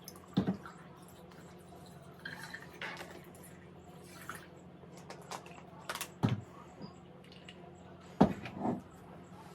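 Scattered clinks and light knocks of dishes, cutlery and drink containers handled on a table, a handful of short sharp clicks over a steady low hum.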